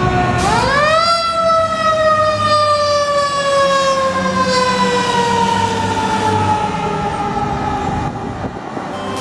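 Siren of a 2007 American LaFrance fire engine responding: it winds up quickly about half a second in, then slowly winds down in pitch over the next seven seconds, with the truck's engine rumbling underneath.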